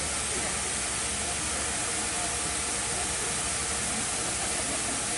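Steady hiss of steam escaping from a steam locomotive.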